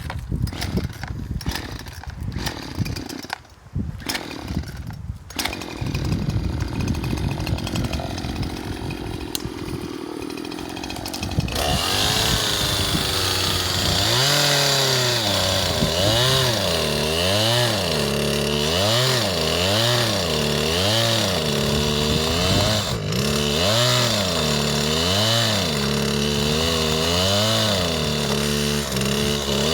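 Barely working chainsaw running unevenly and broken up for about the first ten seconds, then louder and steady, its engine speed rising and falling about once a second as it cuts.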